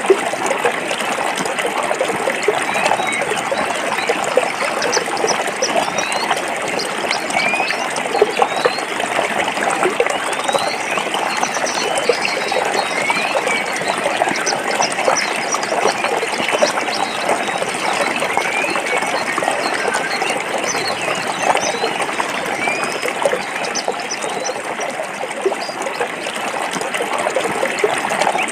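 A forest stream flowing over rocks: a steady rush of running water. Faint short, high chirps come and go over it.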